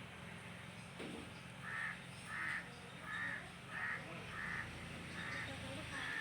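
A bird calling repeatedly outdoors: about seven short calls, roughly one every two-thirds of a second, starting about two seconds in.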